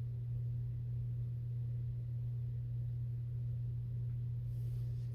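A steady low hum, one unchanging deep tone with nothing else over it.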